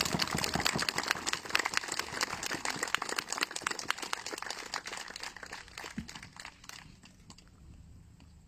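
Audience applauding, the clapping dying away over about seven seconds.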